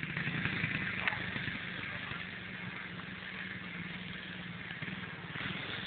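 A 110cc dirt bike's small engine running steadily, growing a little louder over the first second and then holding an even pitch.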